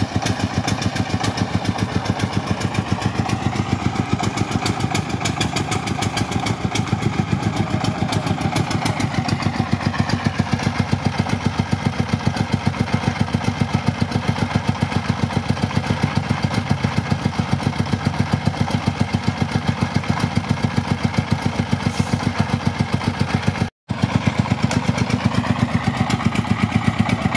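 Single-cylinder diesel engine of a công nông farm truck chugging steadily with a fast, even putter, its pitch shifting slightly a few times. The sound cuts out completely for a split second about three-quarters of the way through.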